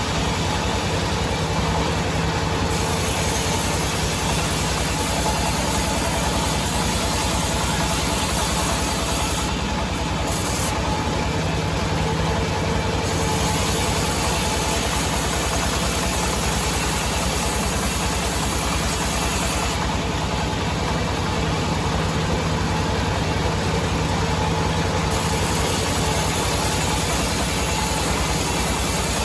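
Sawmill's engine running steadily at an even speed, a constant low pulsing drone with no change in load.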